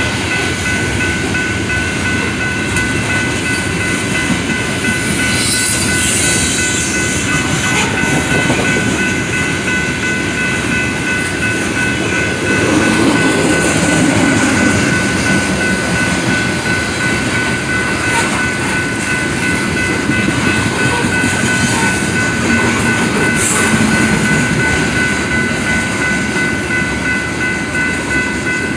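A train passing close by, its cars rolling over the rails with a steady rumble and clickety-clack, and a steady high tone over it throughout.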